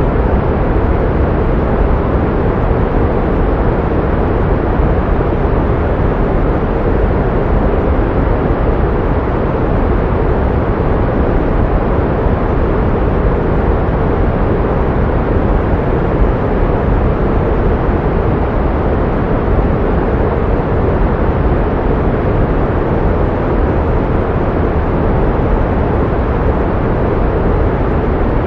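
Steady, unchanging pink noise: an even rushing hiss weighted toward the low end, used as sound therapy to mask tinnitus.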